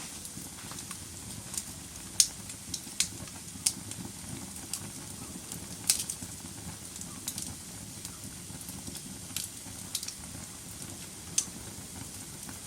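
Wood fire burning in a fireplace: a steady low rumble of the flames with irregular sharp crackles and pops of the burning logs, the loudest pops about two and six seconds in.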